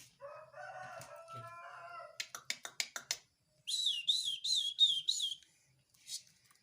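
Tame jalak (starling) calling: a drawn-out pitched call, then a quick run of about eight clicks, then five fast repeated whistled notes.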